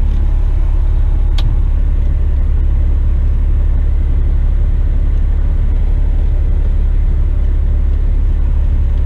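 Western Star tipper truck's diesel engine running at a steady idle, a constant low rumble heard from inside the cab, with one brief click about a second and a half in.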